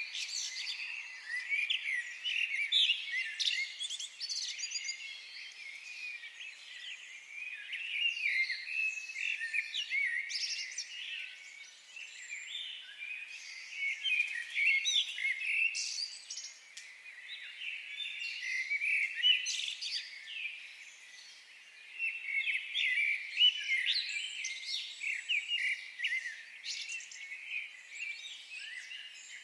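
Many small birds chirping and trilling at once in a forest, a dense overlapping chorus of short high calls with no pause.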